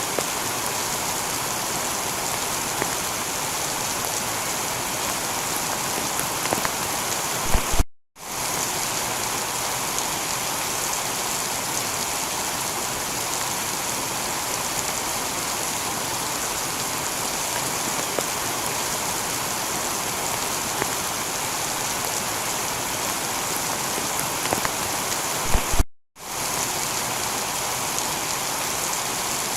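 Heavy, steady rain falling on a tiled roof, with a few sharper drips. The sound drops out completely for a split second twice, about eight seconds in and again about twenty-six seconds in.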